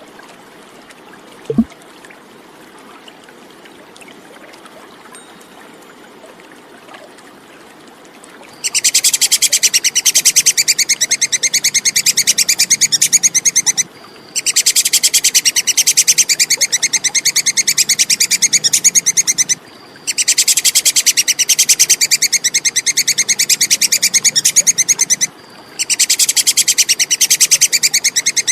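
Tupai kekes (squirrel) chattering call: a very fast, high-pitched 'kekekek' rattle that starts about a third of the way in and runs in bouts of about five seconds with short breaks. Before it there is only faint background and one brief knock near the start.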